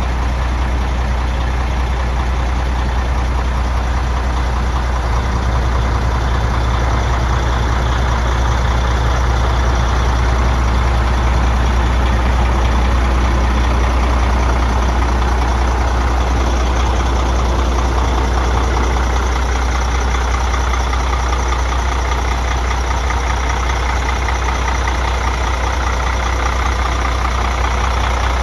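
Sterling heavy truck's diesel engine idling steadily.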